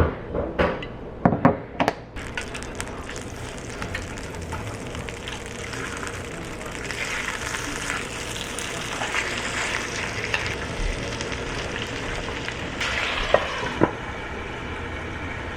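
Food sizzling in a hot frying pan. A few knocks of pan or utensils come first, then a steady crackling hiss sets in about two seconds in, with another couple of knocks near the end.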